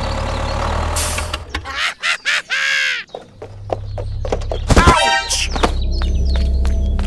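A steady low motor hum that cuts out for about a second midway. Around the gap come quick swooping pitched sounds and a falling horn-like tone, after which the hum comes back.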